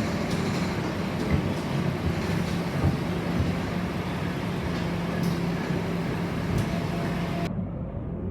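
Inside the cabin of a Scania K230UB bus, the five-cylinder diesel engine running with a steady drone, with small rattles and clicks from the interior. Near the end the sound turns suddenly duller.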